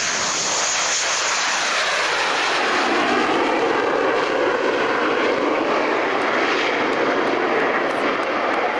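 McDonnell Douglas F-15 Strike Eagle's twin jet engines during a low pass: a loud, continuous jet roar that deepens in pitch from about three seconds in.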